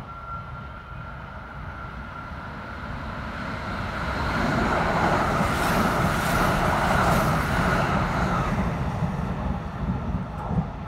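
Kintetsu 80000 series 'Hinotori' limited express train passing through the station: its rumble builds over about four seconds, is loudest as the cars go by, then fades. A steady high whine sounds under it until the train has passed.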